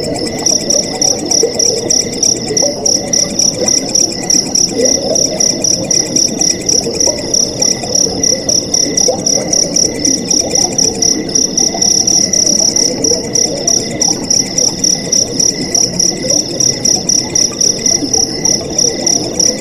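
Crickets chirping in a steady, rapid, high-pitched pulse, over the low gurgle of flowing water.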